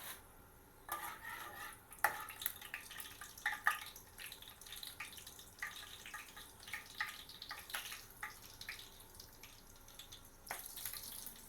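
Cinnamon and cloves crackling and sizzling in hot sunflower oil in a pan, with many irregular small pops: the oil has come up to heat.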